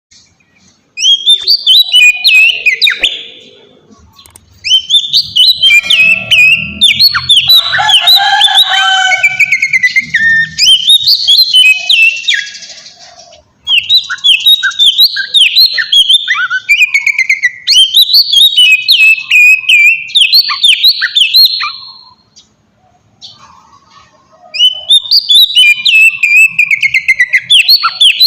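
Oriental magpie-robin (kacer) singing a loud, fast string of whistled and chattering notes in several long bouts with short pauses between them. This is the song used as a lure (pancingan) to get other kacer to answer.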